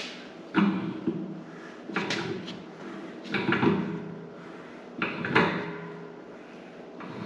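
A series of clunks and short scrapes, about five spaced roughly a second and a half apart, from parts and tools being handled while the air compressor inlet fitting is worked on.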